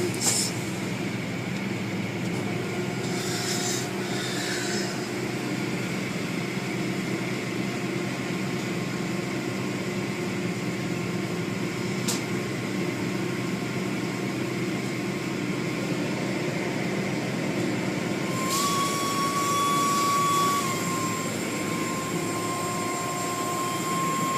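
Automatic car wash machinery running steadily, heard from inside the car as a continuous hum. Short bursts of hissing come twice. A steady whine starts near the end.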